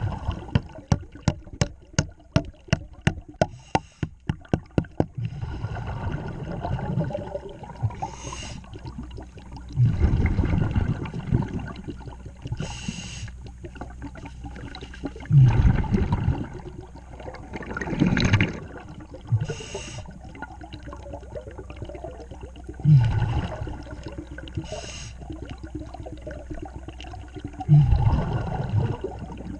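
Scuba diver breathing underwater through a regulator: a short hiss on each inhalation, then a low bubbling rush on each exhalation, repeating about every five seconds. A fast run of sharp clicks, about five a second, fills the first few seconds.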